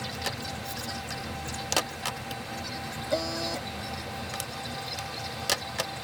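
A few sharp clicks and knocks over a steady low hum, with one short squeak about three seconds in.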